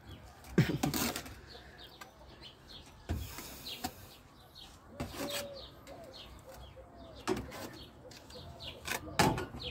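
Chickens clucking and small birds chirping, with scattered sharp knocks and clatters from the work, the loudest about half a second in.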